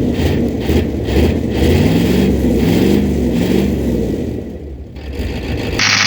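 A 1986 Ford F250's 6.9 IDI diesel engine running rough, its speed rising and falling unevenly. Near the end the sound changes abruptly to a steadier one.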